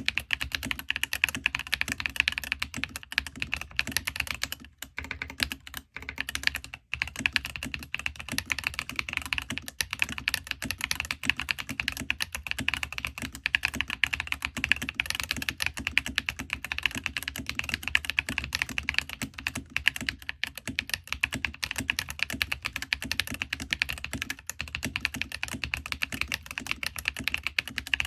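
Mechanical keyboard with Ajazz Banana switches being typed on quickly and steadily, a dense run of keystroke clacks with a few brief pauses early on.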